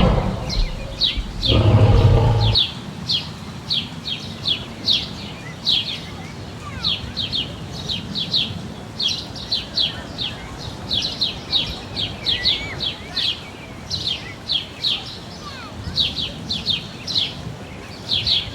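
Small birds chirping: a steady stream of short, high, falling chirps, often in quick runs of two to four. In the first two seconds or so a louder, low sound briefly sits under them, then stops.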